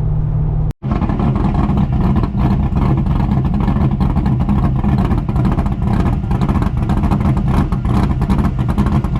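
A car engine running while driving, steady and loud, with a sudden brief break just under a second in, after which it sounds rougher.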